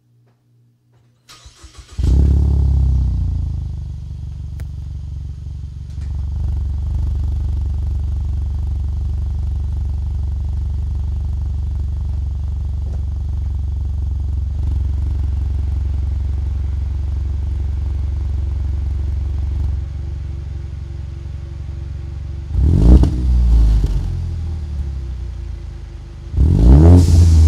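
2015 Ford Mustang EcoBoost's turbocharged 2.3-litre four-cylinder, exhaling through Magnaflow mufflers, starting up: a brief crank about a second in, catching with a loud flare, then idling steadily. Near the end it is revved twice in quick blips.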